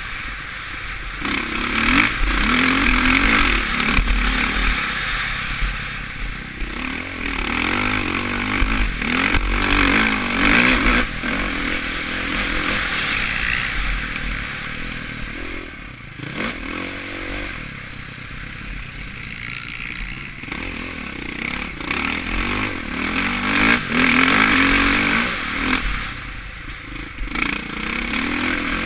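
Suzuki RM-Z450 single-cylinder four-stroke motocross engine under riding throttle, its pitch rising and falling in repeated surges as the rider opens and closes the throttle, with wind rush over a helmet-mounted camera.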